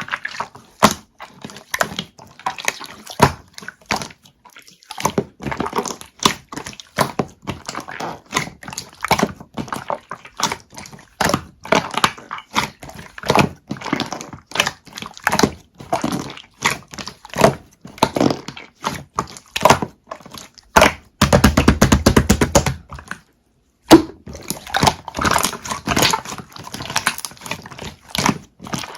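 Soft, sticky material being squeezed and worked by hand, making a dense run of quick clicks and crackles. About three-quarters of the way through there is a rapid, buzzing stretch of crackling, then a short pause.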